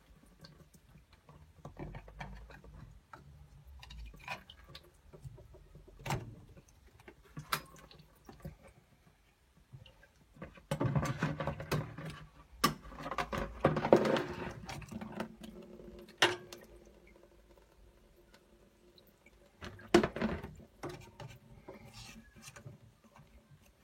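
Scattered clicks and knocks of tools and parts being handled inside an opened combi boiler while its diverter valve is taken out, with a longer stretch of rattling and scraping about halfway through.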